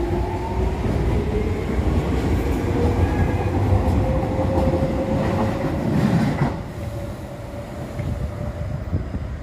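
Docklands Light Railway train pulling out of the station: the whine of its electric traction drive climbs steadily in pitch as it accelerates, over the rumble of its wheels. The sound drops away about six and a half seconds in as the last car clears.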